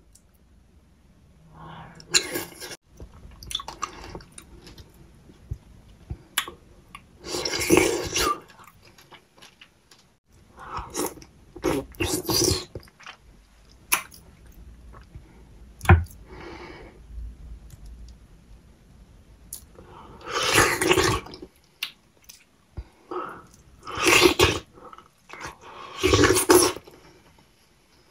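Close-miked chewing of soft ripe kiwi fruit and papaya, in bursts a second or two long every few seconds, with short clicks from the mouth between.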